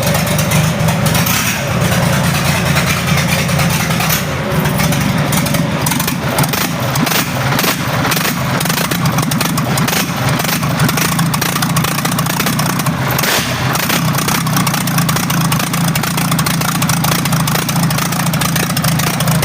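Isuzu 6HE1 inline-six diesel engine running steadily with a rapid diesel clatter. This is a test run just after the injection pump was recalibrated and the injector nozzles were replaced.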